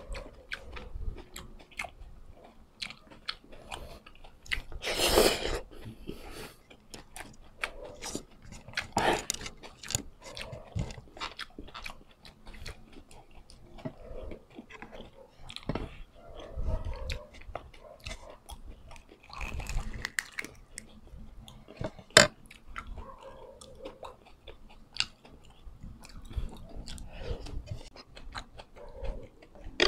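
Close-miked mouth sounds of chewing and crunching food, in irregular bites, with the scrape and clink of a metal spoon on a ceramic plate; one sharp clink about two-thirds of the way through is the loudest sound.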